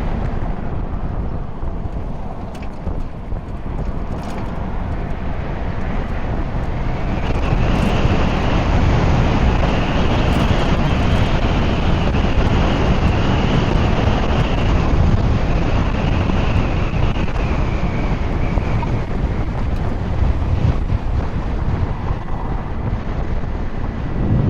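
Wind rushing over the microphone of a rider on a moving 96-volt electric motorcycle, with no engine noise, only a faint high whine. It grows louder about a quarter of the way in as the bike picks up speed.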